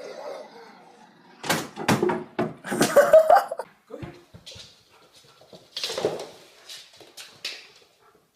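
A dog making short, sharp sounds in two bursts, one about a second and a half in and another about six seconds in.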